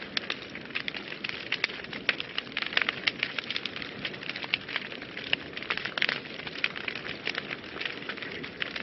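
Wood fire burning in a fireplace with a steady hiss and frequent irregular crackles and pops.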